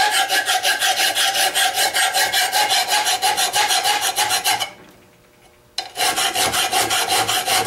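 Hand file rasping across the edge of a steel lawn mower blade clamped in a vise, in two runs of quick strokes with a pause of about a second between them, over a steady ringing note. The blade is dull, its cutting edge worn round, and is being filed back to an edge with a file that is itself none too sharp.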